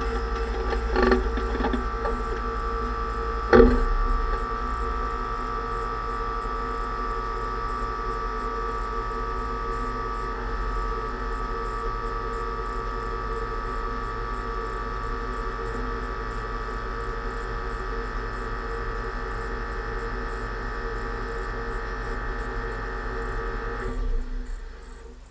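Steady whine from the freshly rebuilt differential of a 2006 Range Rover Sport, with a knock about a second in and a sharper one at about three and a half seconds; the whine fades out near the end. The owner suspects the pinion bearing preload is set too tight.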